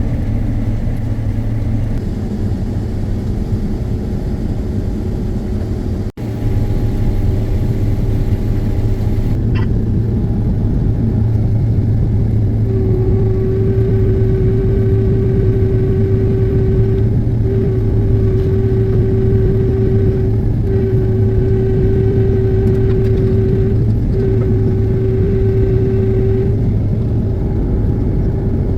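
Combine harvester running steadily while harvesting corn, with a deep, even drone. A steady higher-pitched tone joins a little under halfway through and breaks off briefly three times before it fades. The sound cuts out for an instant about six seconds in.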